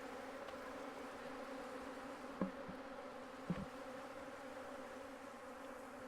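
Honeybees buzzing in a steady hum around open hives, with two short taps a second apart near the middle.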